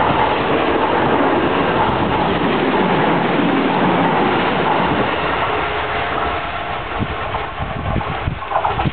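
Kintetsu electric train passing close by: a steady rush of wheels on the rails that eases after about six seconds as it draws away, with a few clacks over rail joints near the end.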